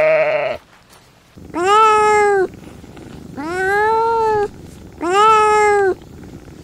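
The end of a sheep's bleat, then a kitten meowing three times. Each meow lasts about a second and rises then falls in pitch.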